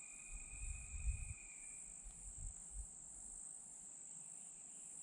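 Steady high-pitched insect chorus, with a fainter, lower held tone for about the first two seconds. Low thumps and rumbles come in the first few seconds, then stop.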